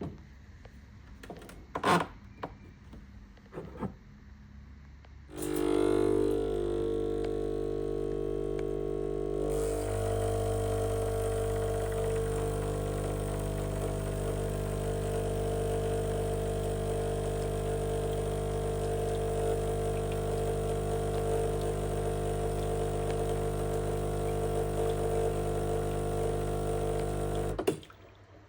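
A few clicks, then a Sage espresso machine's vibratory pump runs with a steady buzzing hum for about twenty seconds while pulling a shot. Its tone changes a few seconds after it starts, and it stops abruptly.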